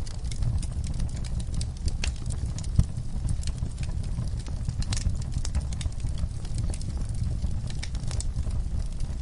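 Wood fire burning in a fireplace: a steady low rumble of flames with irregular sharp crackles and pops, one louder pop a little under three seconds in.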